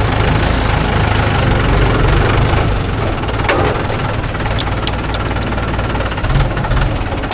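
Diesel engine running steadily with a deep throb, with a few light clicks and knocks midway.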